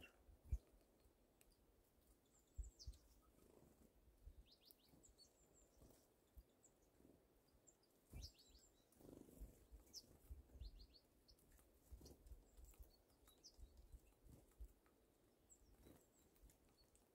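Faint small-bird chirps: short high notes, several in quick runs of three or four, against near silence. A few low thumps break in, the loudest about half a second in.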